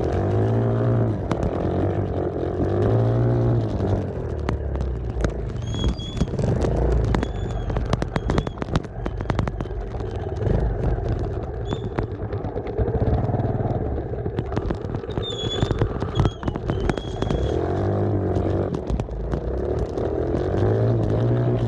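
Dirt bike engine revving up and down in repeated swells as it is ridden, with rattling clicks and knocks throughout, thickest in the middle.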